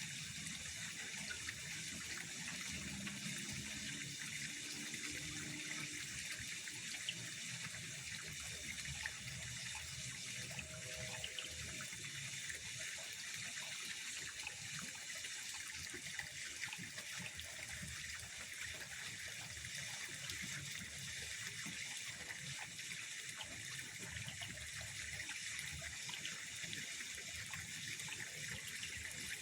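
Steady trickling and lapping of pond water, an even hiss that keeps on without a break.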